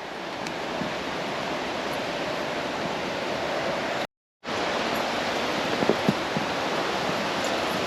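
Steady rushing of a waterfall in full flow, broken by a short gap of silence about halfway.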